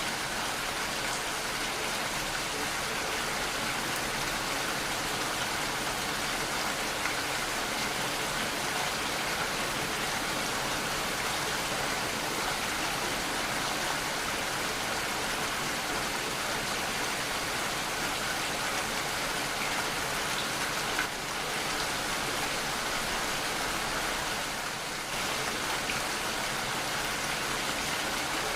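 Steady rainfall, an even hiss of raindrops, dipping briefly in level twice near the end.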